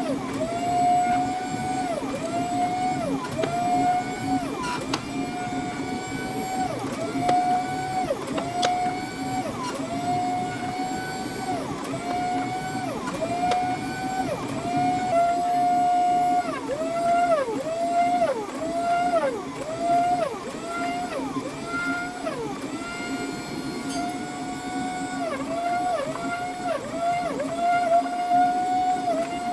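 A motor-driven machine whining at a steady pitch that drops briefly and recovers about once a second, over a steady lower hum.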